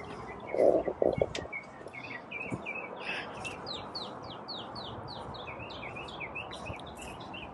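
Songbirds chirping, a quick run of short repeated chirps several a second. A few loud thumps about a second in.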